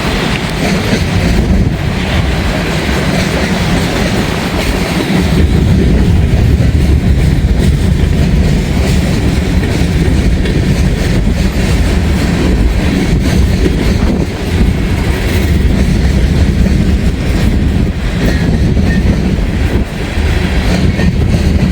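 An empty freight train of gondola cars rolling steadily past, its steel wheels clacking over the rail joints under a loud, continuous low rumble.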